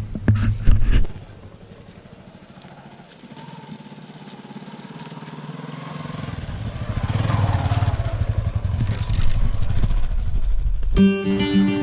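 A few knocks in the first second, then a motorcycle engine running, growing louder over several seconds and staying loud. Acoustic guitar music starts abruptly near the end.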